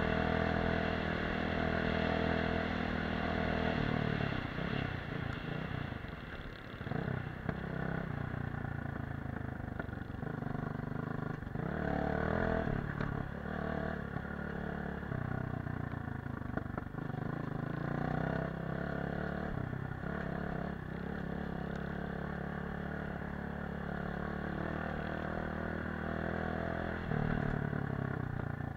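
Dirt bike engine running under way off-road, its pitch rising and falling as the throttle is worked, with a brief drop in engine speed about six seconds in.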